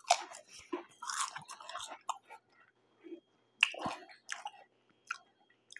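Close-up chewing of tortilla chips: irregular crisp crunches mixed with wet mouth sounds, the loudest crunch a little under four seconds in.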